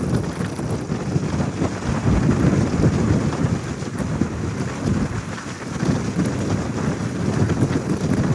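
Uneven, continuous rumbling noise of a car on the move, like wind and road noise buffeting the microphone, with no clear engine note.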